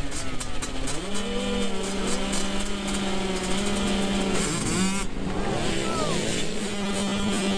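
Motocross dirt bikes racing: engines revving up and down as the riders work the throttle, several bikes heard at once over a steady drone.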